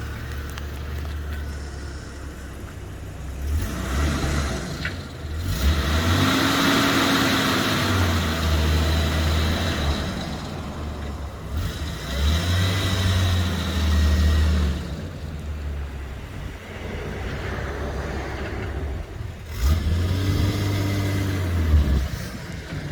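Jeep Comanche pickup driving, its engine revving up and easing off three times, with road and tyre noise under it.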